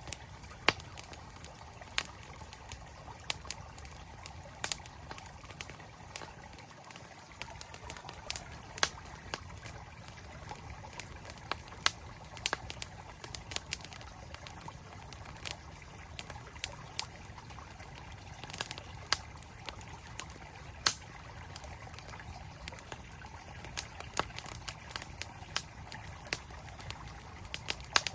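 Wood campfire crackling with frequent sharp, irregular pops over the steady rush of a flowing stream.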